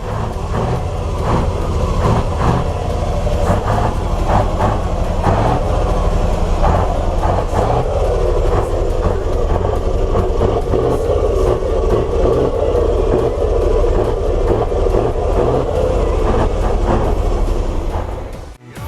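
Heavy diesel truck engine running loudly and steadily, with a deep low rumble.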